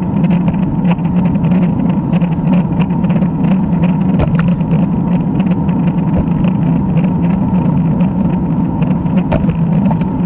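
Steady low rumble of riding noise on a road bike: tyres on the road and wind on the microphone, with no breaks.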